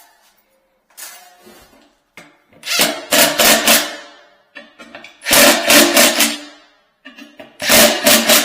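Handheld power tool run in three short bursts of about a second each, with a rapid clattering and a steady whine under it.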